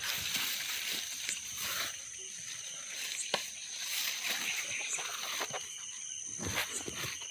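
A steady high-pitched insect drone, with a few sharp clicks and some rustling near the end.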